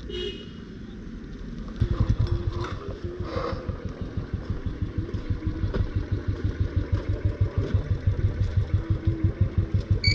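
Motorcycle engine running, with a loud, even, pulsing exhaust beat that comes in suddenly about two seconds in over a quieter engine hum.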